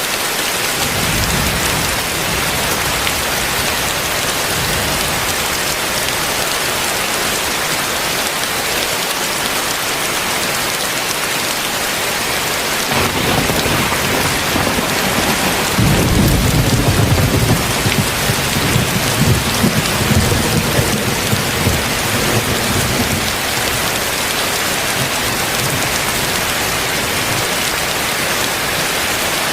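Heavy rain falling steadily. About halfway through, a long low rumble of thunder rolls in, swells for several seconds and fades away.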